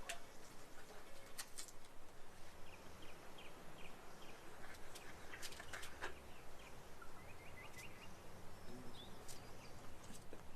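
Outdoor ambience: small birds chirping in short repeated runs over a steady hiss, with a few sharp clicks scattered through it.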